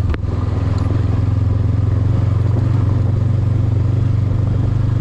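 Honda CB500X's parallel-twin engine running steadily under way on a gravel and mud road, a low steady rumble, with one short click just after the start.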